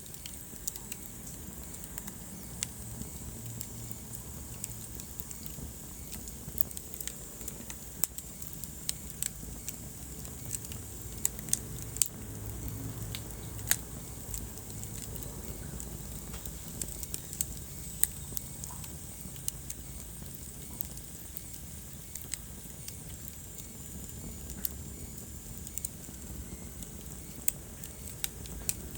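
Wood fire burning in a fireplace, crackling: irregular sharp pops and snaps over a steady low rumble of the flames.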